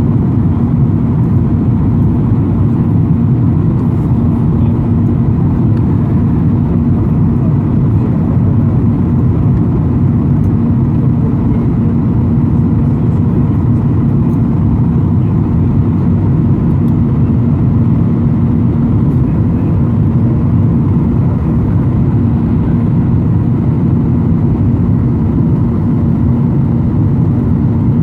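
Steady low cabin drone of a Ryanair Boeing 737 airliner in flight: engine and airflow noise heard from inside the cabin, with a constant hum running through it.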